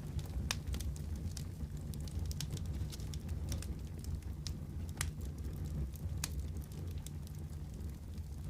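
Wood fire crackling in a fireplace: a steady low rumble of flames with irregular sharp pops and snaps, a few standing out louder.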